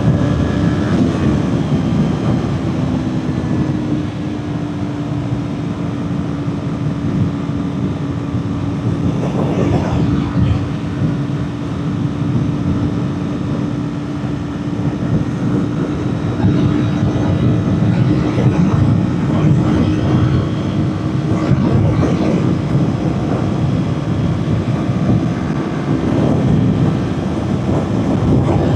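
Kawasaki Ninja 400's parallel-twin engine running at a steady high note under sustained throttle, over a heavy rush of wind noise. The note glides in pitch in the first couple of seconds, then holds level until it changes shortly before the end.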